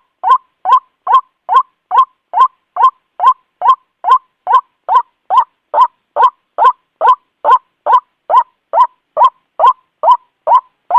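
White-breasted waterhen calling: a steady series of short, harsh notes, about two and a half a second, each much like the last.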